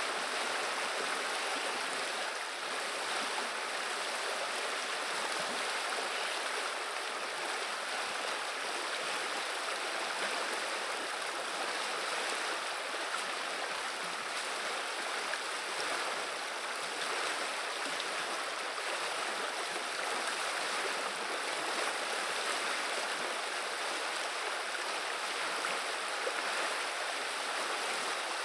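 River water running and babbling over stones: a steady, even rush of flowing water.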